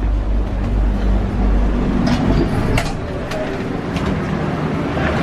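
Sleeper train running: a steady low rumble and rattle inside the carriage, with a few sharp clicks through the middle.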